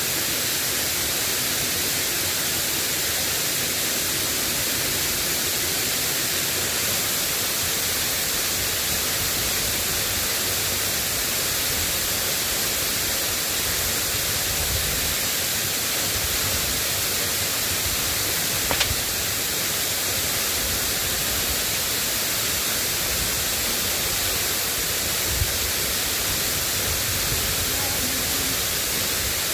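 Steady hiss of drizzling rain, with two short sharp ticks, one about two-thirds through and one near the end.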